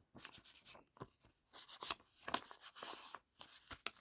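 Paper and craft pieces being handled on a desk: soft rustling and rubbing with small scattered taps and clicks.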